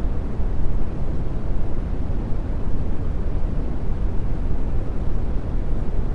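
Steady brown noise: an even, deep rushing hiss, strongest in the bass and fading toward the treble.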